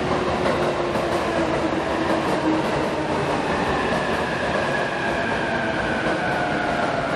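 JR electric commuter train running through the station with a steady rumble of wheels on rail. Its thin whining tones slide slowly down in pitch, a lower one in the first half and higher ones from about halfway.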